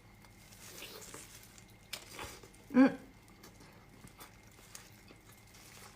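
Quiet eating sounds: scattered faint clicks and a soft rustle, with one short, loud, pitched sound that bends in pitch about three seconds in.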